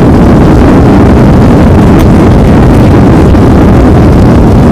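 Boeing 737 landing, heard from inside the cabin: a loud, steady, deep rumble of engines and rushing air with no change through the stretch.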